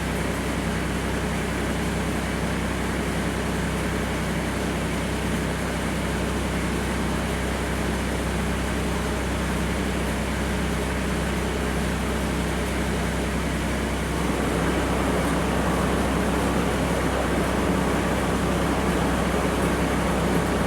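Ford 1210 tractor's three-cylinder diesel running steadily, driving its rear-mounted snowblower. The blower runs smooth and quiet, its noise fixed by recent repairs. About fourteen seconds in, the sound gets louder and fuller.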